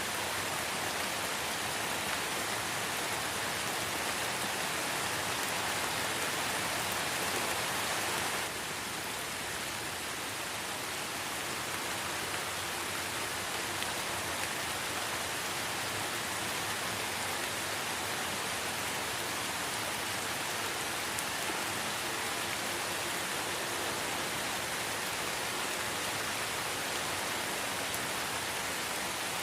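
Light rain falling in a forest: a steady, even hiss of many small drops. It turns slightly quieter and less bright about eight seconds in.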